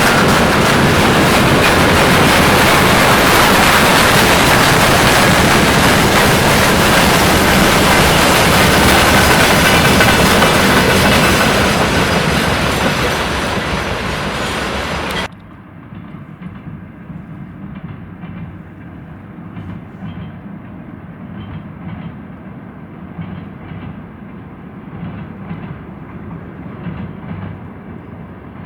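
Freight train crossing a rail bridge, its wagon wheels clattering loudly over the rail joints. About fifteen seconds in the sound cuts off suddenly to a much quieter, duller clatter of wheels.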